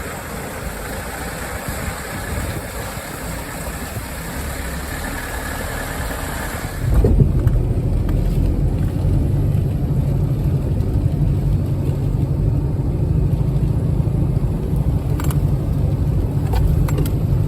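Off-road vehicle driving along a rough trail: engine and road noise with a high hiss for the first several seconds. About seven seconds in the sound changes abruptly to a louder, steady, deep engine rumble.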